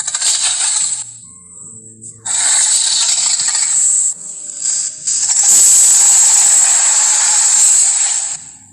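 Monster growl sound effects built from big-cat recordings: three harsh, breathy snarls, the last the longest and loudest at about three seconds.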